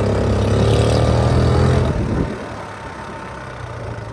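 Honda C70 step-through's small four-stroke single-cylinder engine running steadily under way, then dropping to a quieter run about two seconds in.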